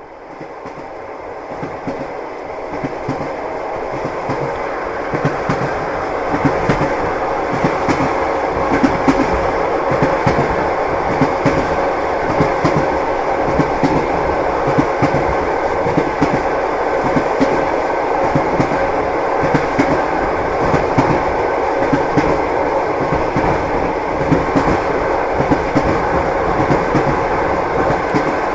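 A passenger train running along the rails: a steady rumble with the rhythmic clack of the wheels over the rail joints. It fades in over the first several seconds, then holds steady.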